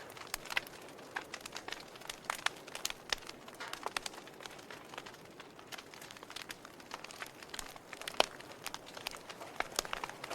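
Wood fire in a fireplace crackling: burning logs give irregular sharp pops and snaps over a low steady hiss, with one louder pop about eight seconds in.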